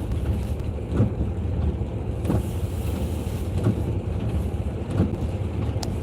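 Steady car road rumble heard from inside the cabin while driving in the rain, with a soft regular tick a little more than a second apart and a brief hiss about two seconds in.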